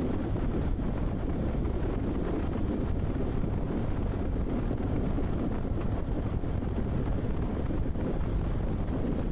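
Steady wind buffeting the microphone of a camera riding on a moving off-road motorcycle: a low, even rumble with no break.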